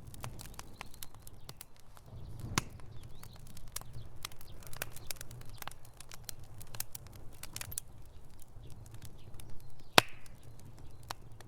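Wood fire in a fireplace crackling, with irregular snaps and pops over a low steady rumble of flames; one sharp pop stands out about ten seconds in.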